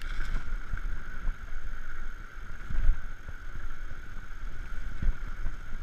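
Electric bicycle riding under throttle: an uneven low rumble of wind on the microphone and tyres on the road, with a steady high whine from the electric motor.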